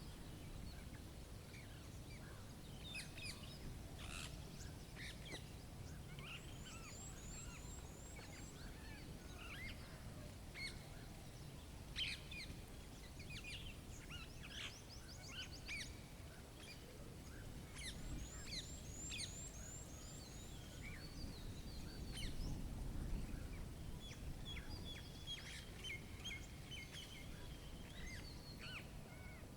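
Small songbirds chirping and calling over and over, with a few fast, high trills of repeated notes. Under them is a steady low wind rumble from the snowstorm, stronger about two-thirds of the way through.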